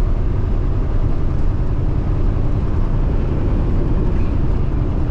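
Steady low rumble of a semi truck driving, engine and road noise heard from inside the cab.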